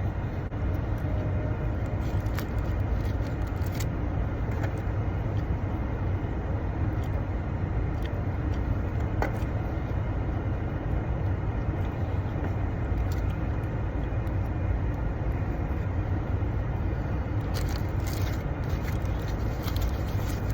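Steady low engine rumble, with a few faint clicks and rustles over it.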